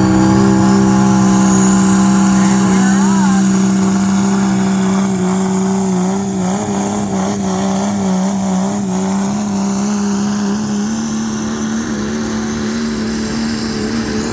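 A pulling vehicle's engine held at high, steady revs under load. The pitch sags slightly midway and climbs again near the end.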